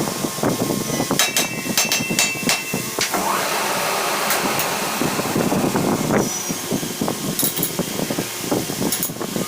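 Workshop sounds: a quick run of sharp metallic clinks and knocks a second or two in, then scattered taps, over a steady mechanical hum.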